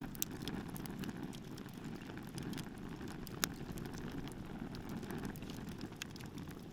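Bonfire burning with a low, steady rumble and frequent sharp crackles and pops, the loudest pop about three and a half seconds in.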